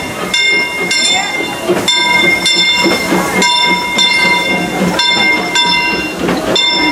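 Steam locomotive bell ringing steadily, about two strikes a second, as the train comes into the station, with crowd chatter underneath.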